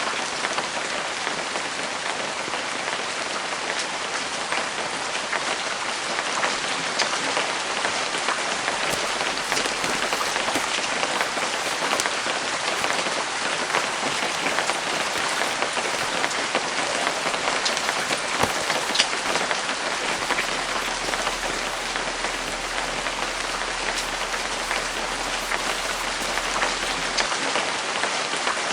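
Steady rain falling, a dense even patter with scattered louder individual drops.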